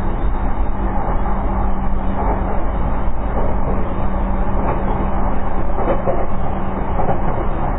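Interior running noise of a JR East E233 series electric train cruising at steady speed: a continuous rumble of wheels on rail with a steady low hum.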